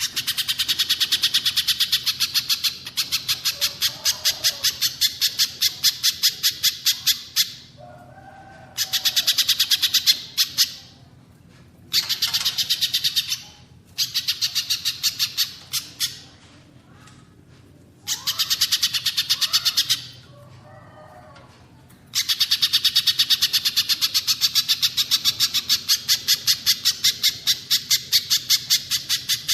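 Songbird calling in fast, evenly spaced runs of sharp chip notes, each run lasting a few seconds, with short pauses between runs and a long unbroken run near the end. The calls come from a birdsong training recording of spiderhunter and cililin calls.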